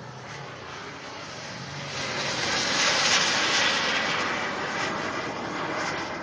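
Turbine engine of a model BAE Hawk jet (a P-160 turbine) in a high-pitch pass overhead, the rushing jet noise growing to its loudest about three seconds in and then fading.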